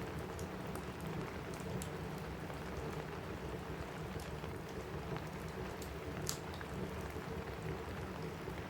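Steady rain on a roof, with scattered small sharp crackles and one louder crackle about six seconds in.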